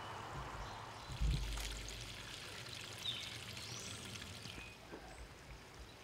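Faint birds chirping in the background, with short gliding whistled notes, over a steady hiss. There is a single low thump about a second in.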